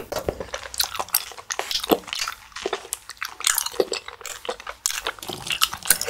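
Close-miked chewing of rosé tteokbokki rice cakes in sauce: wet, sticky mouth sounds with many short clicks and smacks.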